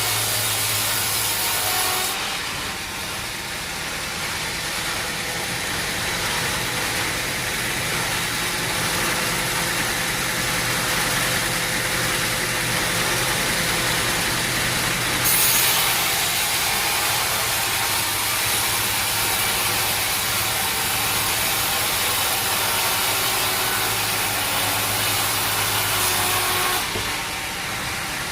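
Sawmill machinery running: a steady engine drone with the noise of a saw cutting wood, the sound changing abruptly about 2, 15 and 27 seconds in.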